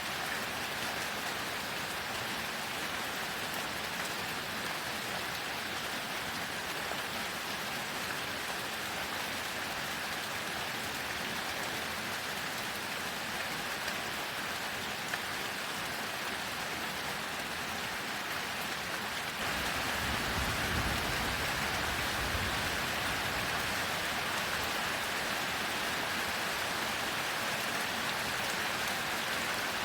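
Heavy rain falling steadily. About two-thirds of the way in, a low rumble of thunder comes in and the rain gets louder.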